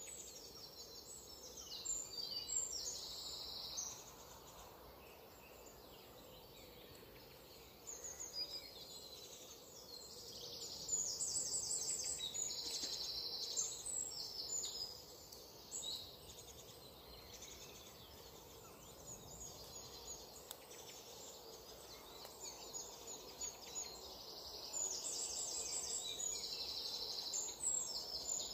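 Birds calling in bouts of rapid, high chirping over a steady background hiss from the nest webcam's outdoor microphone.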